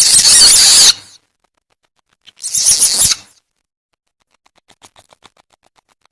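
Civet lure call: two loud, harsh, hissing screech calls of about a second each, the second about two seconds after the first, then a run of faint, rapid clicking chatter near the end.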